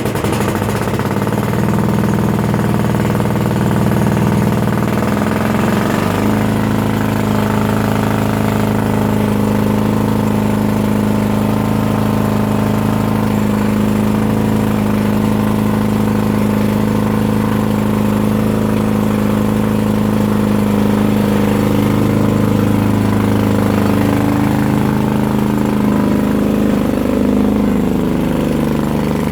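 Yard-Man lawn tractor engine running steadily. Its speed rises about six seconds in, then holds.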